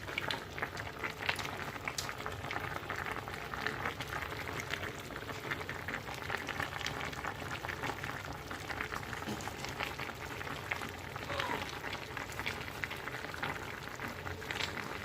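Meat, potato and olive tajine simmering in its sauce: a steady, dense bubbling crackle.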